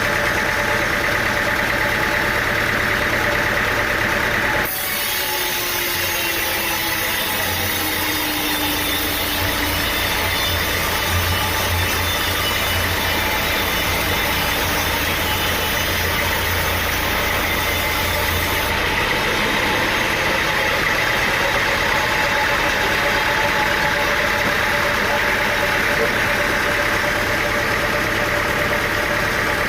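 An engine running steadily, the sound of engine-driven machinery at work. Its sound changes abruptly about five seconds in, adding a low hum and a hiss, and changes back about fourteen seconds later.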